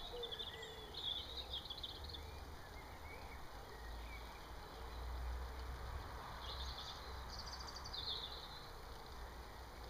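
Garden birds singing, with bursts of quick high chirps about a second in and again about two-thirds of the way through, over a low steady background rumble.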